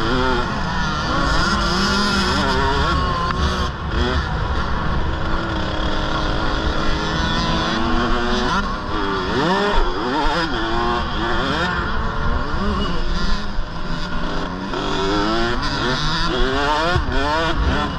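Several KTM 65 mini motocross bikes' small two-stroke engines revving up and down over one another, their pitches rising and falling through gear changes.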